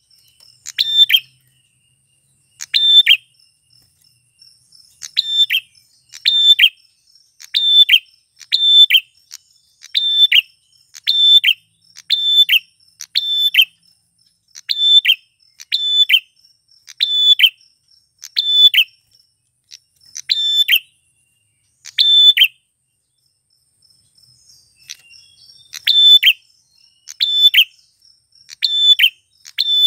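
Male prenjak klawu (a prinia) calling: a short, sharp chirp repeated roughly once a second, with a longer pause near the end before the calls resume.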